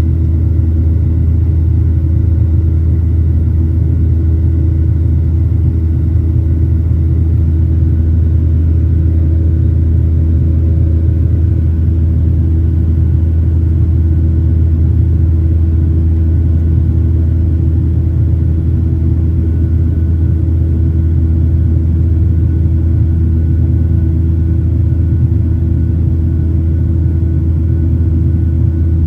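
Boeing 737-800's CFM56-7B jet engines and airframe heard from inside the passenger cabin: a loud, steady low rumble with a steady hum over it, with no change in pitch or level.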